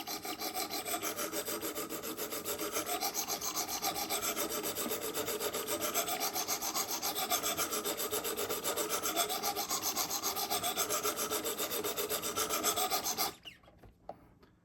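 Coarse 100-grit sharpening stones on a Wicked Edge Go guided sharpener scraping back and forth along a knife edge in rapid, even strokes, raising a burr on one side of the blade. The strokes stop about 13 seconds in, followed by a couple of light clicks.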